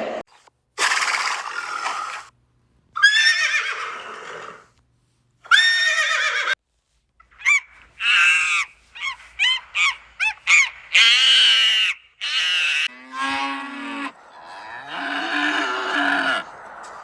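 A string of short farm-animal calls cut one after another, with brief silent gaps between them: some falling calls, then a quick run of short repeated calls about halfway through.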